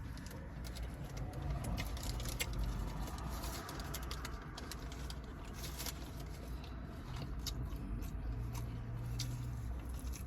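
Close-up eating sounds: chewing and mouth smacks on a taco, with many small scattered clicks, over a low steady hum.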